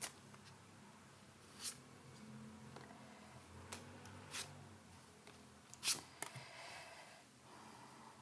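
Tarot cards being handled: a few soft, separate clicks and light rustles of cards being drawn or laid down, with a faint room hum underneath.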